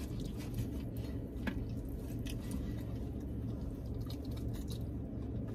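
Chewing and wet squishing of food eaten at close range, with scattered light clicks, over a steady low hum.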